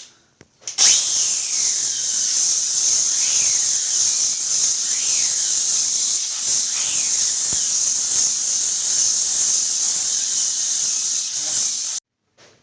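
A loud, steady hiss that starts about a second in and cuts off abruptly near the end, with a few faint falling squeaks in it.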